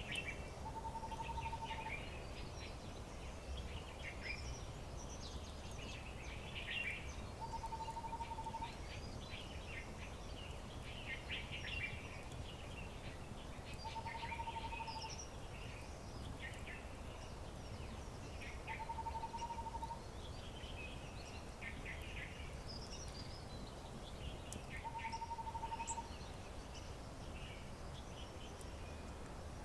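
Several wild birds chirping and singing in short, overlapping phrases. Among them, a steady one-second whistled note repeats about every six seconds, over a low, even background rumble.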